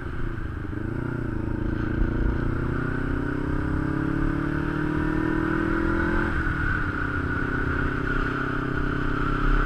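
Kawasaki Ninja 250's parallel-twin engine pulling in gear, its pitch climbing slowly. About six seconds in there is an upshift: the pitch drops, then holds steady. Wind rush on the bike-mounted microphone runs underneath.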